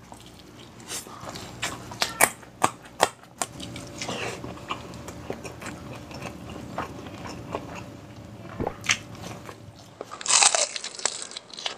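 A person chewing and biting saucy, tender beef kaldereta eaten by hand, close to the microphone: wet mouth smacks and clicks, many of them short and sharp. About ten seconds in there is a louder burst of rushing noise.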